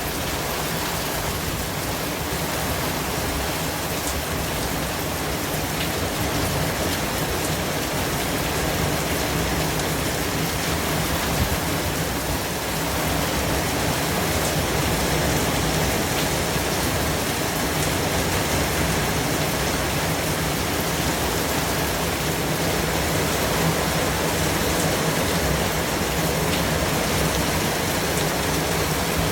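Steady white noise: an even, unbroken hiss spread across the whole range from deep to high, with no rhythm or pitch.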